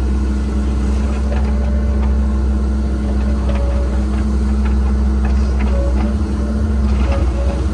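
Cat 306 excavator's diesel engine running steadily, with short whines coming and going and scattered clicks and knocks.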